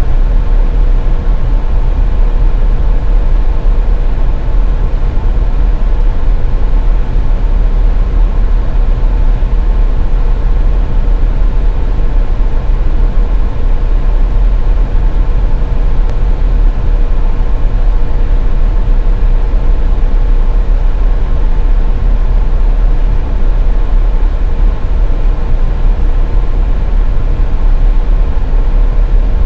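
Steady low rumble of a car driving on the highway, road and engine noise, with a faint steady hum running through it.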